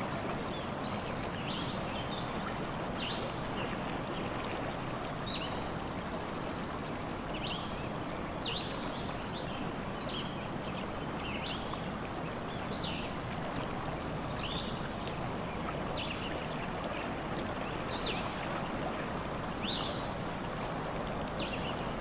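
Wild songbird calls: short, sharp, high notes repeated about once a second, with a couple of buzzier, higher notes between them, over a steady rushing background like running water.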